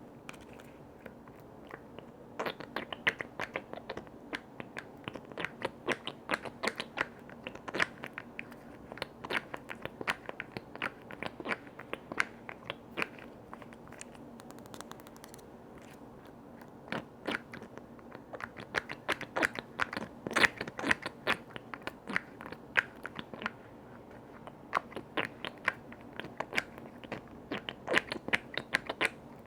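Quick, irregular tapping and clicking on container lids, close up, coming in runs with short pauses between them.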